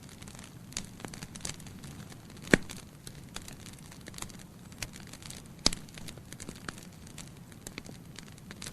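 Wood fire in a fireplace, logs burning with a constant light crackle and two loud pops, about two and a half and nearly six seconds in.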